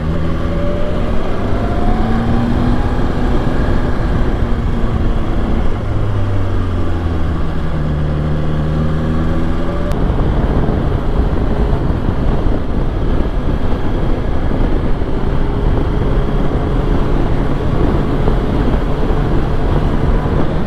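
BMW S1000XR's inline-four engine running on the move, its pitch rising and falling as the throttle and gears change, under a steady rush of wind.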